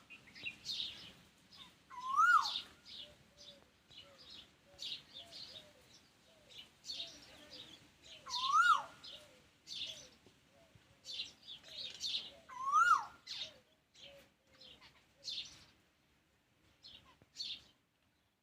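Several wild birds calling together: a steady run of short, high chirps and twitters, with a louder call that rises and then drops sharply, heard three times. The chirping thins out near the end.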